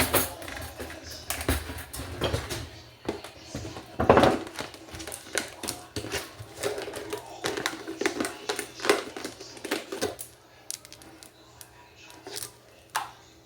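Dishes and utensils clinking and clattering as a dishwasher is loaded, in irregular sharp clicks and knocks that thin out near the end.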